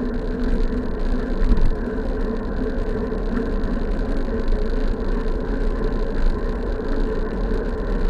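Steady wind rumble on the microphone and road noise from a bicycle ride, with a low steady hum.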